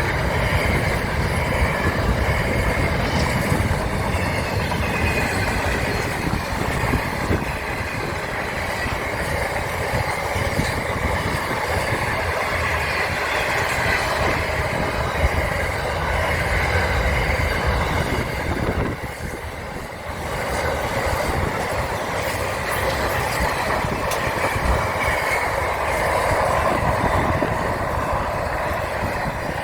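A train running on the rails, a continuous rumble with a steady high ringing from the wheels. It dips briefly about two-thirds through, then carries on.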